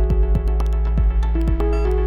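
Elektron Model:Cycles FM groovebox playing one of its factory patterns. Repeated drum hits fall sharply in pitch under held synth notes that step from one pitch to another, with short high clicks on top.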